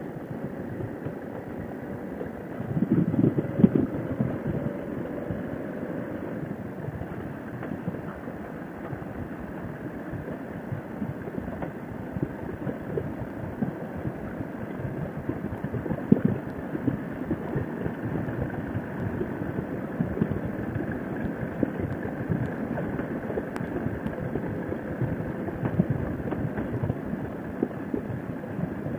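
Harley-Davidson Sportster V-twin engine running at road speed while riding, a steady engine and road noise, briefly louder about three seconds in.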